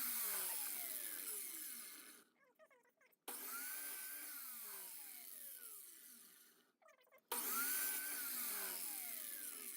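Power saw blade coasting down after being switched off, with no brake: a whine that falls steadily in pitch and fades, heard three times with short silent gaps between.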